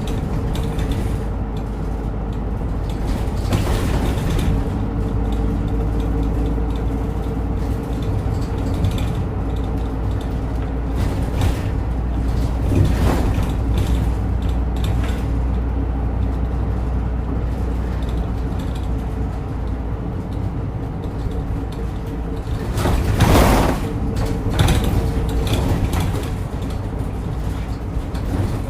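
Route bus running, heard from inside the cabin: steady engine and road noise with small rattles and clicks from the bus's fittings. A short loud burst of noise comes about 23 seconds in.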